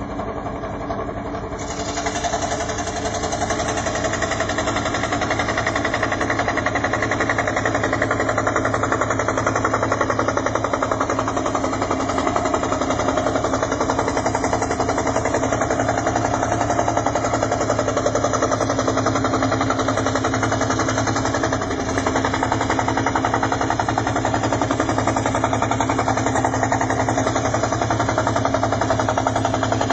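Electric scroll saw running steadily, its blade chattering up and down as it cuts out wooden jigsaw puzzle pieces. It comes up to full speed about two seconds in and dips briefly about two-thirds of the way through.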